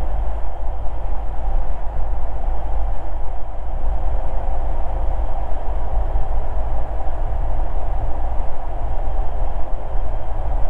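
Cessna 172's piston engine and propeller running steadily on final approach, a constant drone heard from inside the cockpit.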